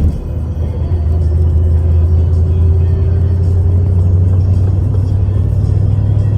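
Steady low drone of a vehicle engine, with music playing over it.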